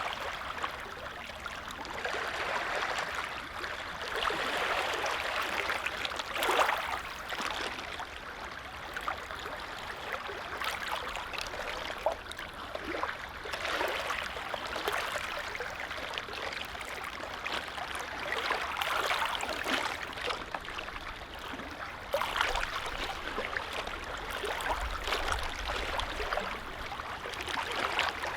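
Small lake waves lapping and splashing in gentle swells every two to three seconds.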